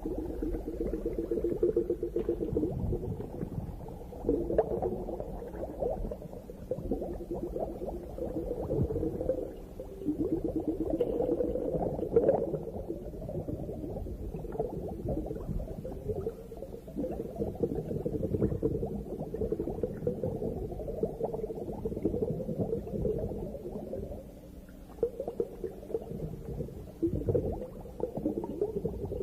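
Muffled bubbling and gurgling water recorded underwater, with a low rumble beneath. It swells and eases in waves, dipping briefly a few times.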